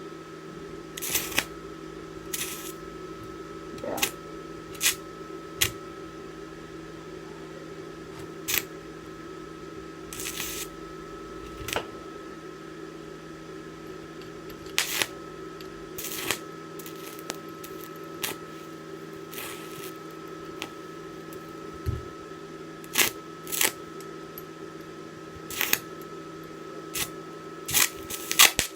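Electric arc welding with a DC inverter welding machine: irregular sharp crackles and pops, about one every second or so, over a steady electrical hum.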